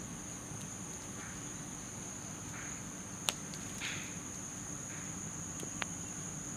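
Night insects making a steady high-pitched drone, over a garden-waste campfire that gives two sharp pops, about three and six seconds in, and a few soft crackles.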